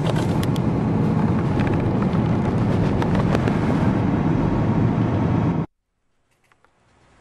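Loud, steady rumbling noise with a few faint clicks, cut off abruptly about five and a half seconds in, then faint quiet sound.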